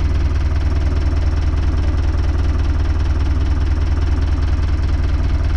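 Renault 651 tractor's diesel engine running steadily at idle, a low, even throb that does not change.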